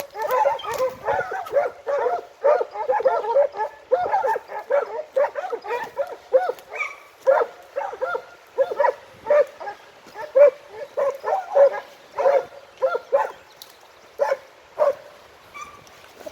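A pack of Italian segugio scent hounds baying, giving tongue while working a hare's scent trail. The calls overlap thickly at first, then thin out after about six seconds to single calls a little apart.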